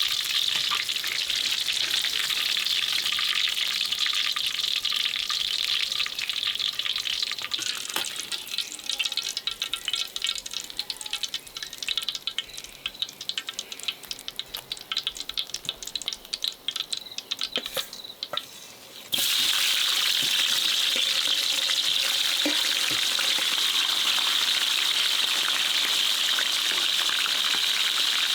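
A steady hiss of running water. About eight seconds in it gives way to a quieter, irregular crackle and sizzle of food frying in a pan. The steady water hiss cuts back in abruptly about two-thirds of the way through.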